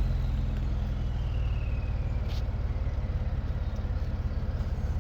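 Vehicle engine running steadily at a low idle after being revved, with a faint whine falling in pitch over the first two seconds or so.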